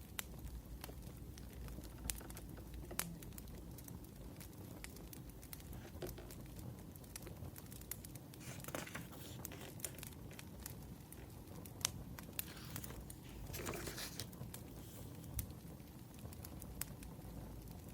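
Burning firewood crackling, with scattered sharp pops and two longer rustles about nine and fourteen seconds in.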